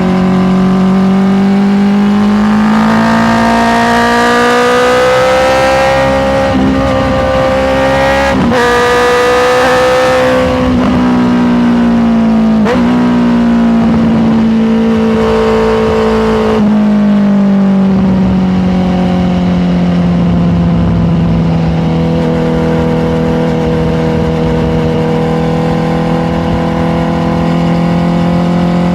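Honda CBR650R's inline-four engine under way, its pitch climbing with brief drops at gear changes about eight, thirteen and sixteen seconds in, then settling to a steady lower note while cruising.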